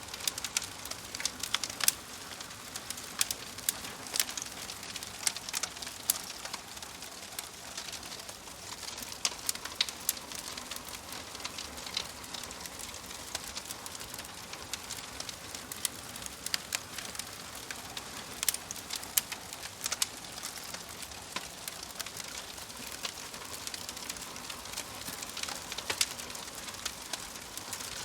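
Fireplace fire crackling: irregular sharp pops and snaps over a steady soft hiss.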